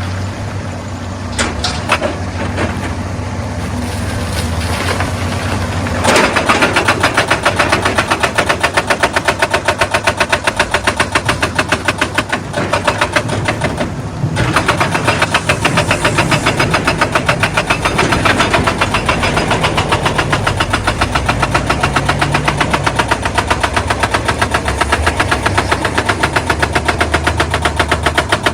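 Excavator engine running, then about six seconds in a hydraulic rock breaker starts hammering stone with rapid, evenly spaced blows over the engine, stopping briefly near the middle before going on.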